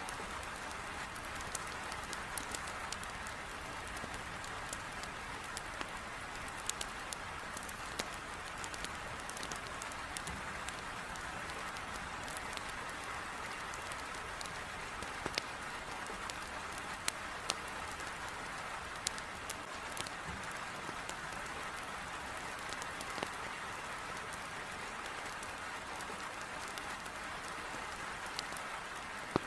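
Heavy rain falling steadily against a window, with sharp, irregular crackles and pops of burning firewood in a fireplace scattered over it.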